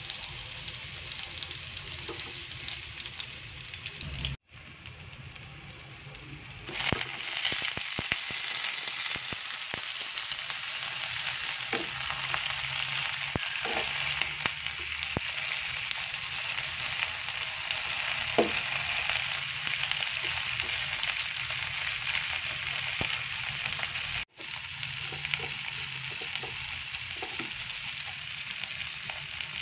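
Oil sizzling in a nonstick wok as chopped ginger and garlic sauté; about seven seconds in, whole shell-on shrimp go into the pan and the sizzle turns louder, with occasional knocks of a spatula stirring them.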